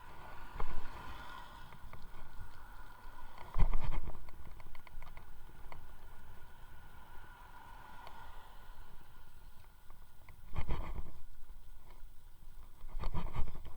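Riding an electric unicycle: wind buffets the microphone in four louder gusts over a faint steady whine, with scattered rattling clicks.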